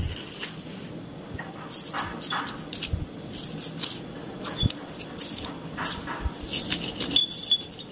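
Irregular small metal clinks, knocks and rubbing as a worn wheel roller bearing and its rollers are handled and wiped clean.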